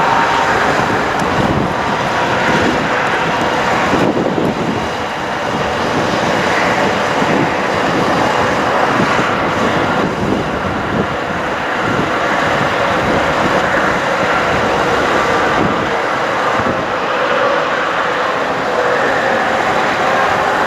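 A 2009 Sterling Bullet bucket truck running steadily: its engine, with a steady rush of wind-like noise and a few faint steady whining tones over it.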